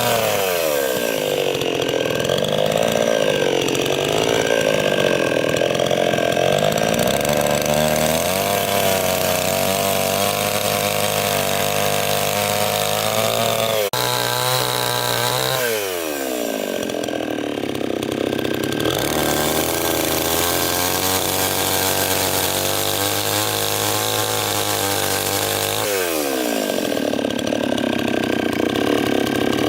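Chainsaw running and cutting wood. Its engine pitch drops sharply as it takes the load, three times, and holds steady in between.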